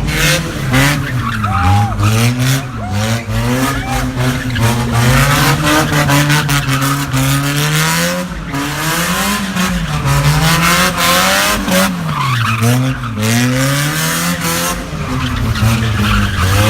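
Car engine revved up and down over and over, with tires squealing and sharp pops from the exhaust.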